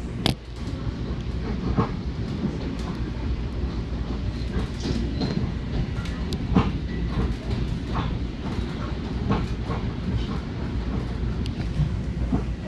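Long Island Rail Road commuter train heard from inside a moving car: a steady low rumble with irregular clacks of the wheels over the track, the sharpest just after the start.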